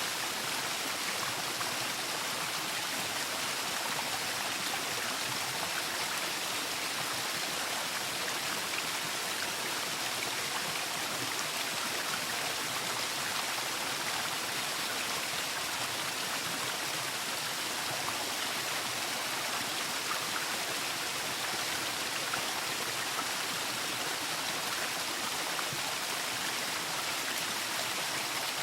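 Waterfall: steady rushing of falling water, an even hiss weighted toward the higher range with no breaks.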